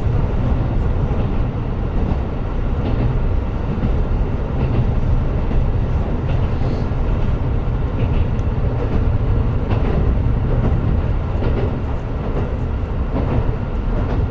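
KiHa 125 diesel railcar running between stations, heard from inside the car: a steady low drone from the engine and the wheels on the rails, with occasional faint clicks.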